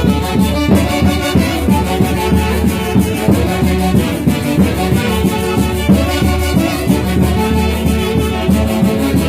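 Band music with brass instruments playing over a steady, regular beat.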